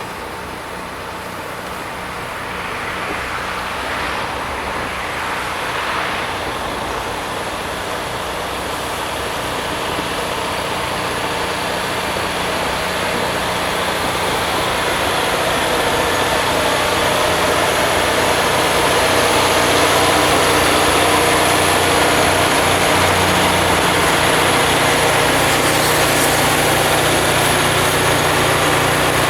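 Rail grinding machine working along the track, a dense mechanical din with a low engine drone, growing steadily louder over the first twenty seconds as it approaches, then holding at full loudness.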